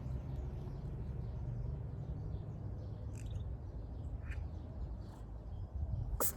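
Countryside ambience: a steady low rumble with a few faint, short bird chirps about three and four seconds in, and one sharp click near the end.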